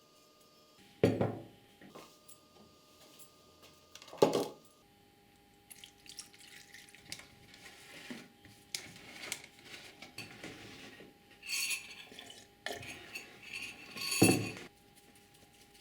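Hard metal parts and tools being handled on a workbench: three sharp knocks about a second in, after four seconds and near the end, with clinking, rattling and scraping in between.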